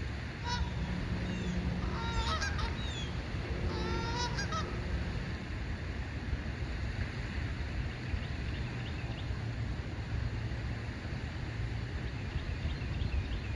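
Geese honking: several clusters of calls in the first five seconds, then fainter calls later, over a steady low background rumble.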